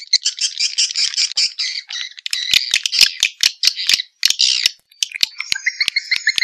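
Swiftlet calls from a lure recording: rapid, dry chirps and clicks in quick succession. About five seconds in, the calls change to a higher twittering with sweeping chirps.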